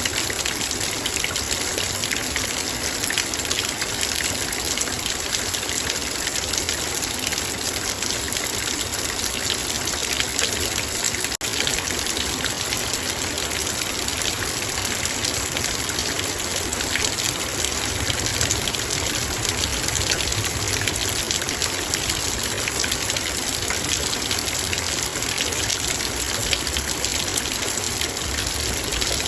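Heavy rain falling on a metal bowl: a steady, dense patter of drops striking the metal over a constant rush of rain.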